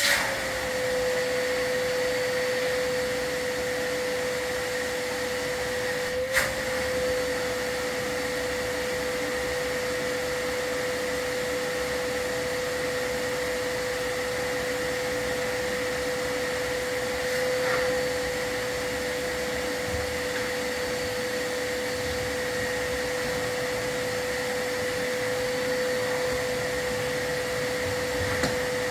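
Vacuum running steadily with an unchanging motor whine, and one sharp click about six seconds in.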